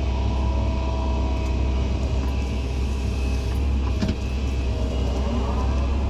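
Excavator's diesel engine running steadily with a deep rumble while digging, its hydraulics whining up and down in pitch near the end. A short knock about four seconds in.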